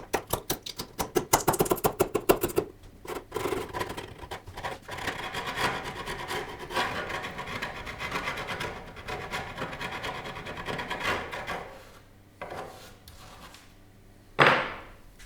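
Hand abrasive work on wood, rubbing back and forth: quick, even strokes at first, then a steadier rubbing that dies away after about eleven seconds. A single brief loud noise comes near the end.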